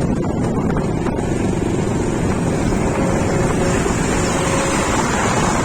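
Tractor engine running steadily, with a heavy low rumble and wind on the microphone; a louder hiss joins about a second in.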